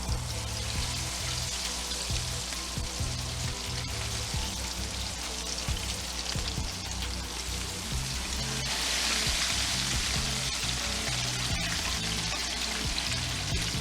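Beer-battered cod pieces deep-frying in hot oil: a steady sizzling hiss that grows a little louder about two-thirds of the way through.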